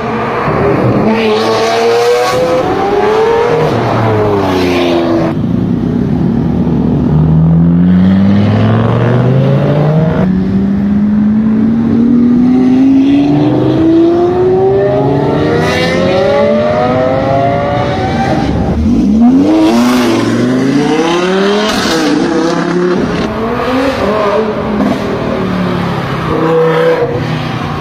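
Lamborghini Aventador's V12 engine revving and accelerating, its pitch repeatedly climbing and falling, with one long rising pull lasting about ten seconds in the middle, then quick drops and climbs near the end.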